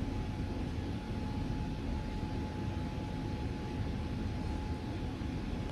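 Steady low background rumble with a faint steady hum running through it. No speech.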